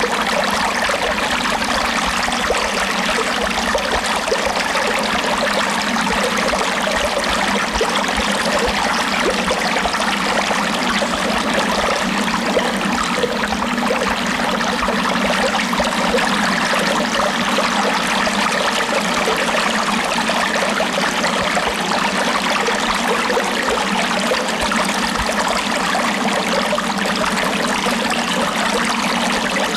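Running water, a steady, unbroken rush like a flowing stream, with no rise and fall.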